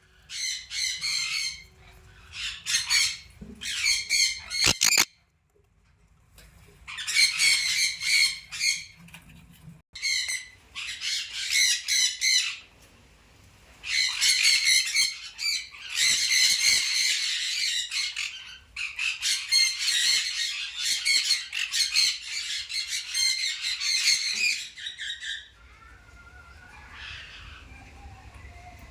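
Birds calling in repeated bouts of a second to several seconds, with short pauses between them. The calling fades to a faint, lower call over the last few seconds.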